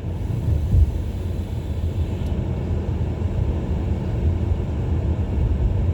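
Car cabin noise while driving: a steady low rumble of engine and tyres on the road, with a brief thump just under a second in.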